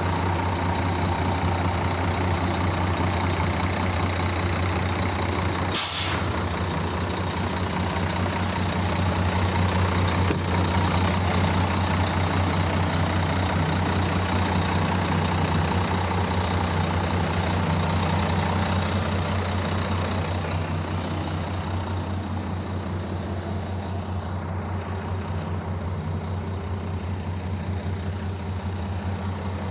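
Scania G420 truck's six-cylinder diesel engine running steadily with a deep, even drone, a little quieter in the last third. About six seconds in comes a short, sharp hiss of released air from the truck's air system.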